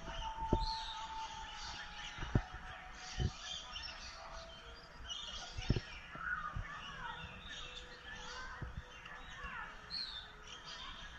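Several songbirds chirping and calling, with a few quick down-sweeping calls, and a handful of sharp clicks in between.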